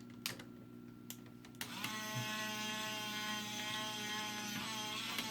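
A couple of light plastic clicks, then the DX Bakurenoh toy's small battery-powered motor switches on about a second and a half in and runs with a steady whine as the motorized arm spins.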